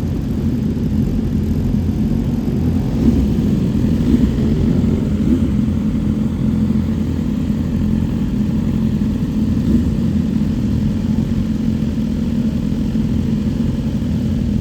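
A motor vehicle's engine running steadily, a low rumble with no sharp events.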